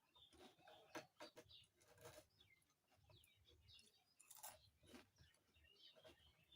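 Faint chewing of crisp Lay's potato chips: irregular crunches and wet mouth sounds.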